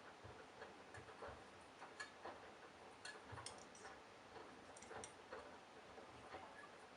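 Candy Bianca washing machine running very quietly, with faint irregular ticks and clicks and soft low knocks about once a second.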